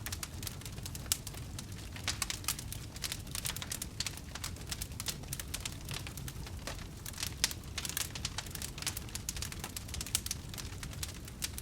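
Wood fire burning steadily with constant irregular crackling and sharp pops over a low rumble of flames.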